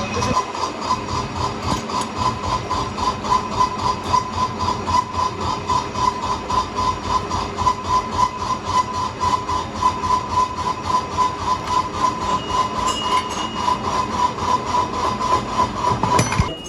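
A workshop machine running with an even pulsing rhythm, about four beats a second, over a steady ringing tone; it cuts off abruptly near the end.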